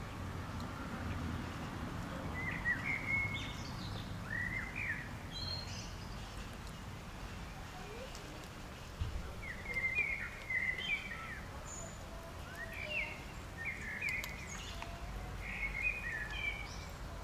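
Small birds chirping in several short bursts of quick, high notes, over a steady low outdoor rumble.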